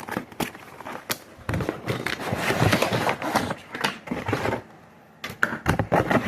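Handling noises: scattered clicks and knocks, and a stretch of rustling and clattering lasting about three seconds, then more knocks near the end.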